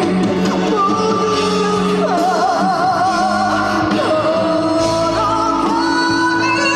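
Korean trot ballad performed live: a female singer holds long notes with wide vibrato over the song's instrumental accompaniment.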